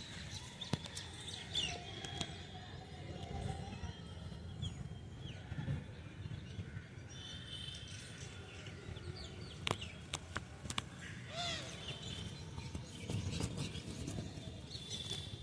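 Several birds calling, with short high chirps and gliding notes throughout, over a low steady background hum.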